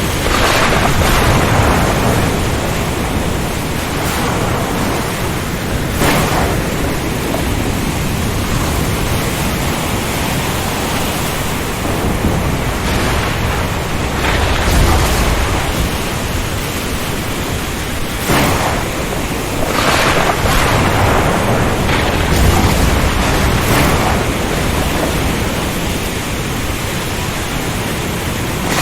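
Storm at sea: a steady rush of heavy rain, wind and surf, with repeated louder surges and low rolls of thunder, the biggest about halfway through and again about three-quarters through.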